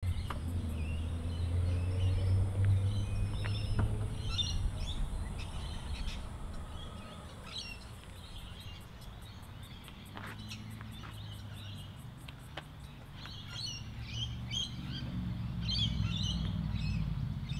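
Birds chirping and calling in the surrounding bush, short scattered calls throughout, over a low rumble that is strongest in the first few seconds. A few sharp knocks sound near the middle.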